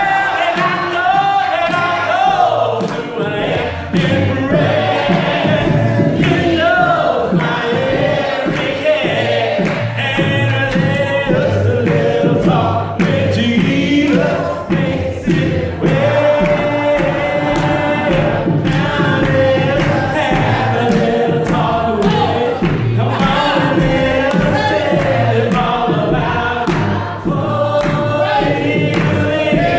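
A group of voices singing a gospel song together, with a steady beat underneath.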